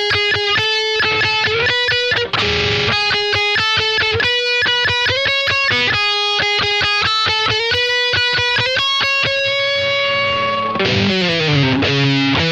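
Electric guitar, an Epiphone SG Special with P90 pickups played through a Boss ME-80 multi-effects unit, picking fast repeated single notes on a few held pitches, then sliding down the neck about eleven seconds in.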